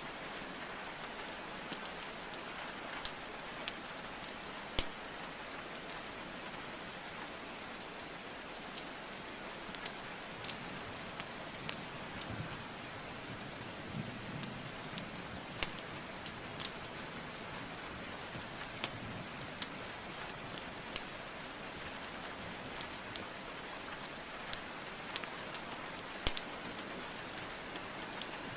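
Steady rain hiss with irregular sharp crackles and pops of burning wood logs in a fireplace, scattered through it several times a second at the busiest.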